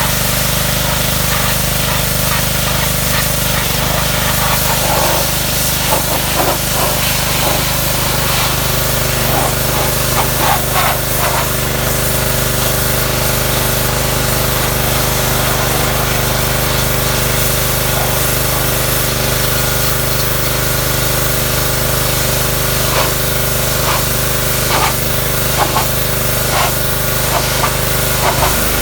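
Pressure washer running steadily while its jet sprays down a car body: a constant low machine hum under a continuous hiss of spraying water.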